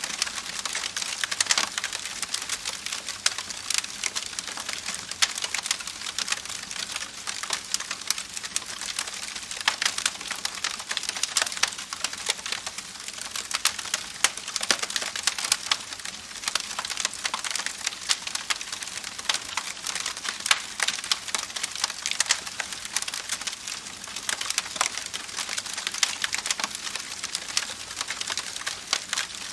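Wood campfire crackling with a dense run of sharp pops and snaps, over the steady rushing hiss of a babbling creek.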